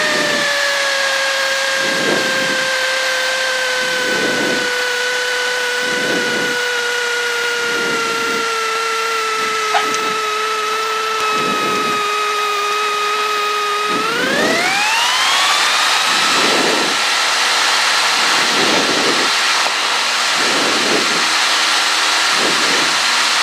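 Cessna 152's four-cylinder Lycoming engine and propeller, first running at reduced power with the pitch sinking slightly and holding low. About fourteen seconds in, the pitch rises quickly and holds higher as full power comes in, typical of the takeoff run of a touch-and-go. A softer pulsing recurs about every two seconds throughout.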